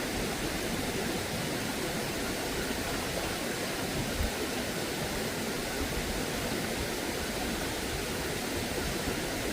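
Steady rush of flowing stream water, with a few soft low thumps.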